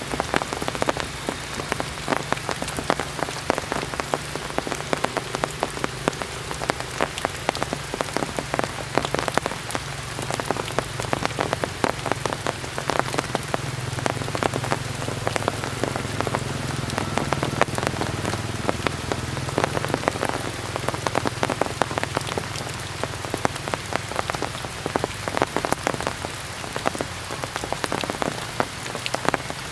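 Heavy rain falling steadily on hard surfaces, a dense patter of drops, with a faint low hum underneath.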